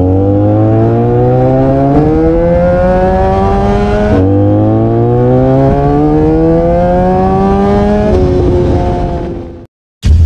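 Sport motorcycle engine accelerating hard through the gears, its pitch climbing steadily and dropping at upshifts about four and eight seconds in, then cutting off suddenly near the end.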